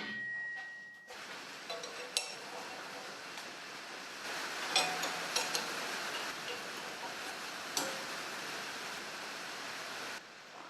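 Light metallic clinks and taps, a few of them ringing briefly, over a steady hiss.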